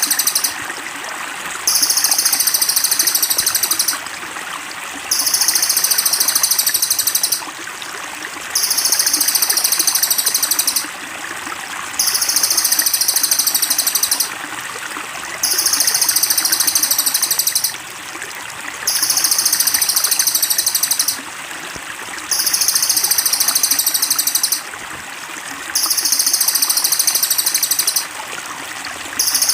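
Masteran recording of a cililin songbird: a very high, rapid trill in bursts of about two and a half seconds, about a second apart, repeating at a very even pace. A steady trickle of running water sits underneath.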